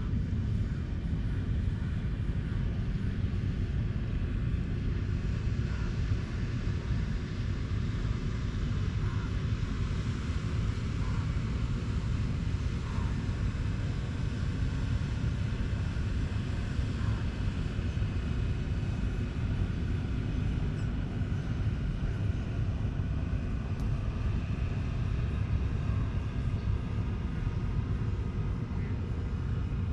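Steady low rumble of distant road traffic, with a few faint short high notes now and then.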